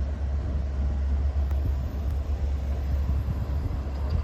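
Steady low rumble of a Long Island Rail Road train going by.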